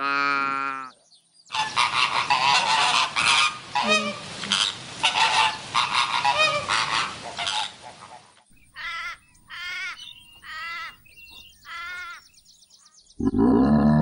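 Flock of flamingos honking: a dense chorus of overlapping goose-like honks, then a few separate honks. A short call at the very start and a loud, low call near the end come from other animals.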